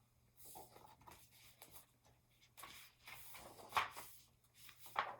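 Paper picture book being handled and its pages turned: soft irregular rustles and scrapes, with two sharper page rustles in the second half.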